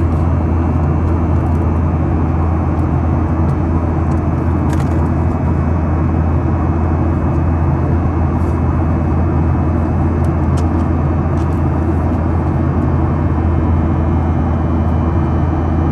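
Steady, loud low drone of a Boeing 737-800 in flight: its CFM56-7B turbofan engines and the rush of air, as heard inside the passenger cabin during the climb. A few faint ticks sit on top.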